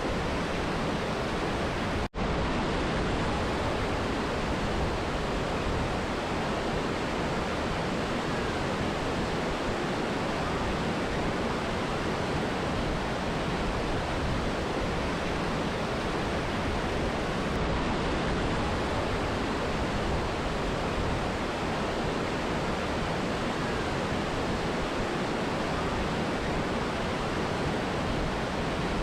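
Steady rushing of a mountain river and waterfall, an even, unbroken wash of water noise, with a momentary gap about two seconds in.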